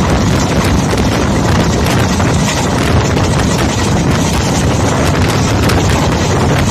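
Passenger train running, heard from on board: a steady, loud rumble and rush of the wheels on the rails and the passing air, with frequent small clicks from the track.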